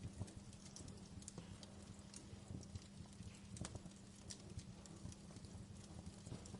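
Wood fire in a fireplace crackling: small irregular pops and snaps, with one sharper pop about three and a half seconds in, over a faint steady low hum and hiss.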